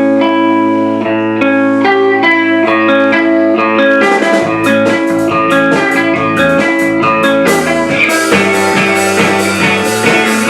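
A rock band playing an instrumental intro: electric guitar chords and picked notes, with drums coming in about four seconds in.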